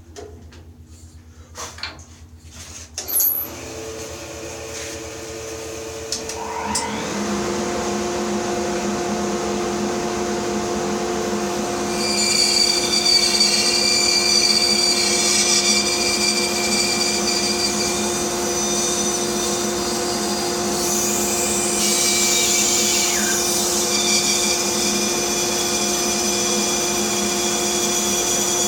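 Bandsaw switched on a few seconds in, its motor coming up to speed and then running with a steady hum. From about twelve seconds on, the blade cutting through a wooden block adds a higher hiss.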